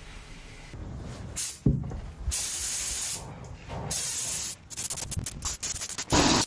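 Pressurised spray hissing in bursts: two held sprays of under a second each, then a quick run of short spurts. A sharp knock comes just before the first spray.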